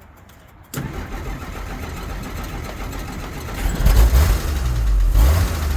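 1963 Jeep Gladiator engine starting about a second in, then running rough and unsteady. It revs up twice as the gas pedal is pumped to keep it from stalling on a hard start.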